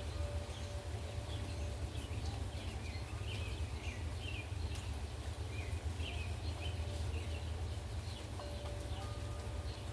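Gusty wind rumbling on the microphone over a steady hiss of rain. Birds chirp repeatedly through the middle, and a wind chime rings faintly at the start and again near the end.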